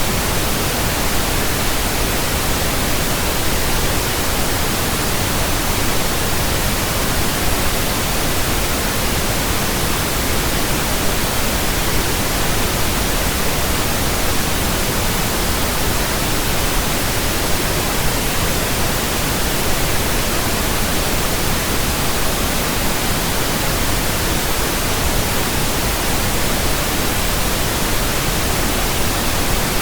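Steady pink noise from a pink noise generator: an even, unbroken hiss across all pitches. It is a burn-in signal for running in new speakers, headphones and earphones.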